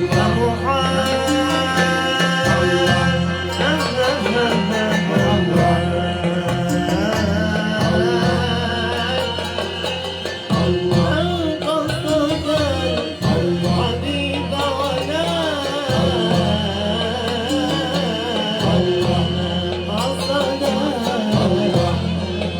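Malouf ensemble music between sung verses: a wavering melodic line over a steady low drone, with a long high note held through most of it.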